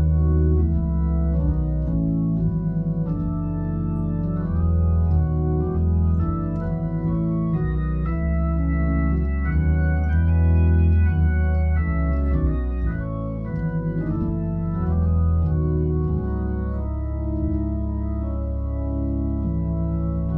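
Hammond A100 organ through a Leslie speaker playing sustained major chords over a bass line, moving step by step down the E major scale.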